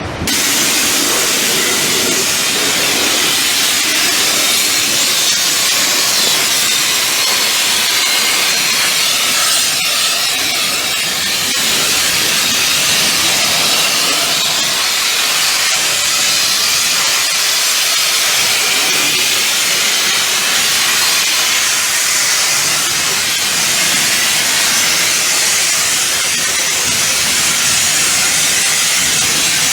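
Pressure washer jet spraying water at high pressure onto a truck, a steady loud hiss that starts abruptly right at the beginning and holds even.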